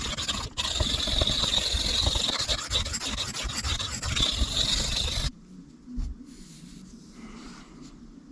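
Steel knife blade scraped in rapid strokes across a diamond sharpening plate, grinding away metal to reprofile the edge; the scraping stops abruptly about five seconds in.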